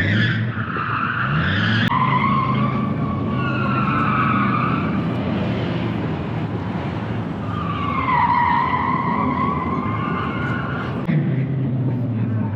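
A car on a timed autocross run: engine running at fairly steady revs, tires squealing through the corners in two long stretches, the first few seconds and again from about eight to eleven seconds in.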